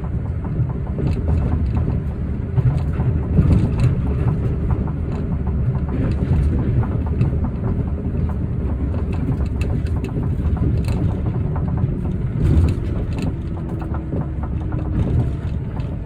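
Osaka Metro New Tram rubber-tyred automated guideway train running: a steady low rumble with frequent small knocks and rattles throughout.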